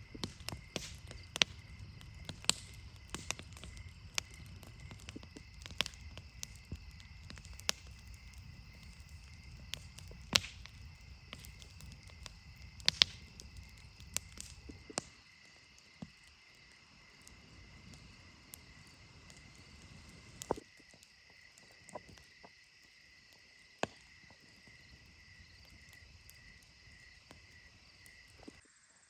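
Steady, faintly pulsing chorus of insects, with scattered sharp clicks and snaps throughout. A low rumble underneath stops about halfway through.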